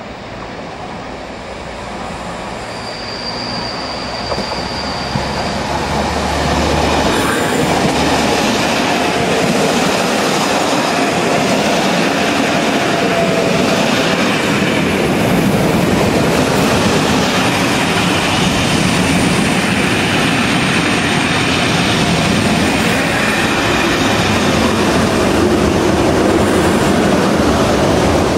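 Class 90 electric locomotive and its coaches running through the station at speed: wheels rumbling and clattering over the rail joints and points, growing louder over the first several seconds and staying loud as the coaches pass. A brief high wheel squeal comes about three seconds in.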